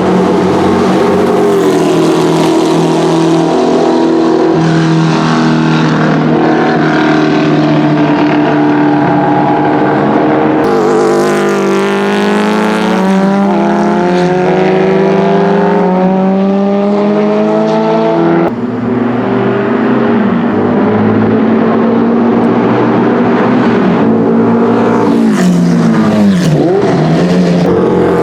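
Porsche 904 GTS's flat-four racing engine running hard on track, pulling up through the revs in repeated rising sweeps. Near the end the pitch drops sharply and climbs again as the car goes by. The sound changes abruptly about eleven and eighteen seconds in.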